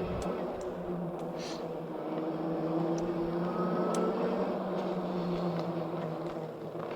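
Electric bike motor whining at a steady, slightly wavering pitch while riding, over rolling tyre noise, with a few light clicks.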